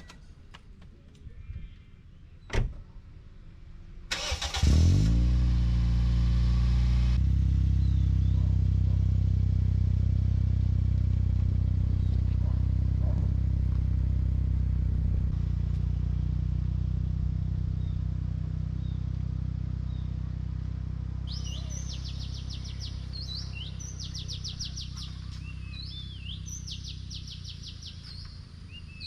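A car engine cranked and catching about four seconds in, after a sharp click, then idling steadily and slowly growing quieter. Birds chirp over the idle in the last several seconds.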